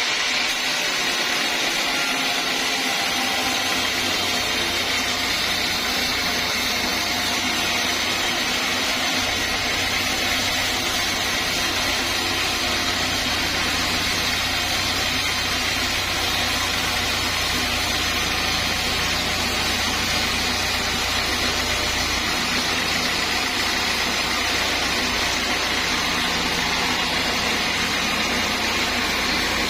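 Sawmill saw running steadily while sawing a mahogany log, an even, unbroken machine noise with a low hum underneath.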